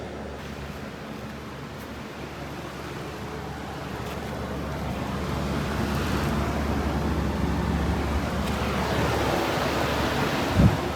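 Carrier air-conditioner condensing units running: a steady low hum with the whoosh of the fan air, growing louder through the middle. A brief thump near the end.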